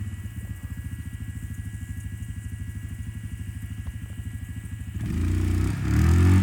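Motorbike engine idling with a steady low pulse, then revving up with rising pitch for the last second or so.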